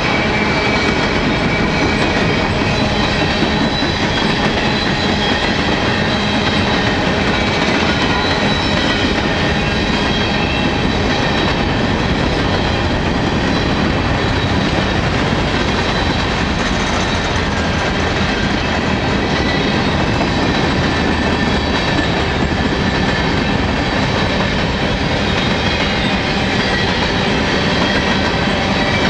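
Steady rolling clatter of a long string of empty steel coal hopper cars passing close by, wheels running over the rails, with faint steady high-pitched tones over the rumble.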